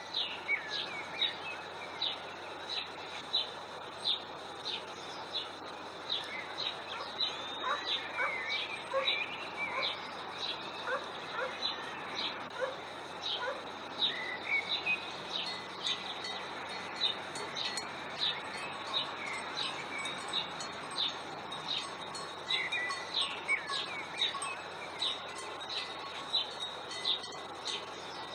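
Birds singing: one bird gives short high chirps about twice a second throughout, while other birds add occasional warbling calls, over a steady outdoor hiss.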